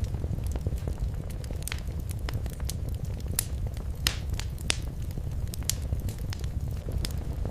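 Wood fire crackling in a fireplace: irregular sharp pops and snaps over a steady low rumble of the flames, with two louder pops about four and a half seconds in.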